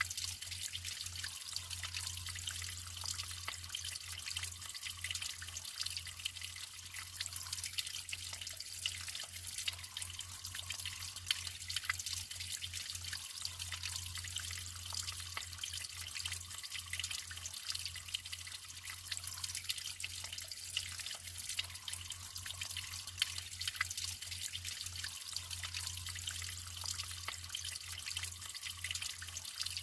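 Natural running water trickling and splashing: a steady hiss full of small drip-like splashes, with a low steady rumble underneath.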